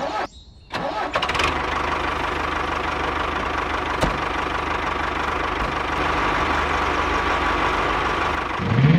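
A small motor starts with a couple of brief bursts, then runs steadily.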